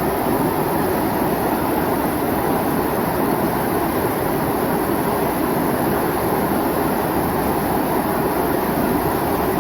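Mountain stream water rushing steadily, a constant full noise with no breaks.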